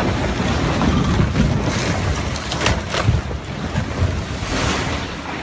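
Loud rushing noise of wind buffeting the microphone over a deep low rumble, with a few sharp cracks.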